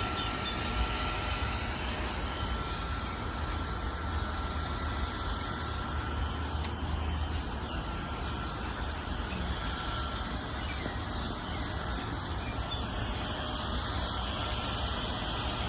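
Steady outdoor ambience: an even low rumble and hiss, with a few faint, high bird chirps.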